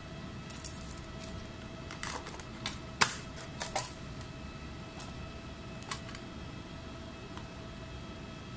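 Irregular light clicks and clacks of a laptop being handled and worked on, over a steady hum. The sharpest click comes about three seconds in, with a quick cluster of clicks around three and a half to four seconds.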